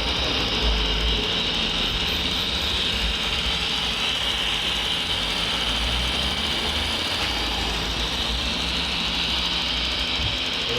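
Radio-controlled model construction machinery running steadily: a continuous mechanical whir with a low rumble under it.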